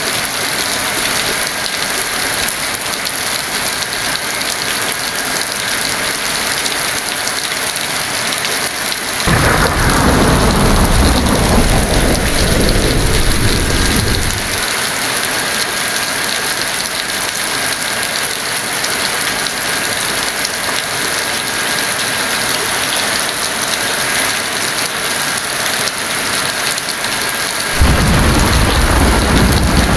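Heavy rain falling steadily. About nine seconds in, a clap of thunder breaks and rumbles down for about five seconds; a second roll of thunder begins near the end.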